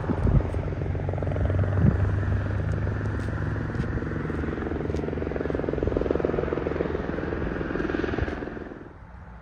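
Diesel locomotive engine running with a steady low throb and a few knocks, its sound dropping off sharply near the end.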